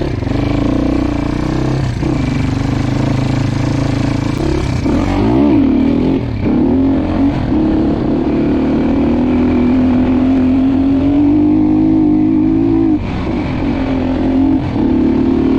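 Dirt bike engine running under way, revved up and down a few times about a third of the way in, then held at a steady pull, easing off briefly near the end before picking up again.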